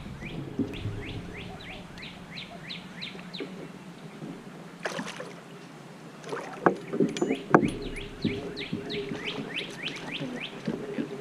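A bird singing a run of quick downslurred whistles, about three a second, in two bouts. Between the bouts come several sharp knocks and rattles from the kayak as a bass is played on the rod.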